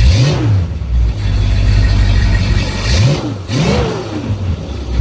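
1970 Dodge D100 pickup's engine running through its new exhaust, the throttle blipped three times: one quick rev just after the start and two more about three seconds in, dropping back to idle between.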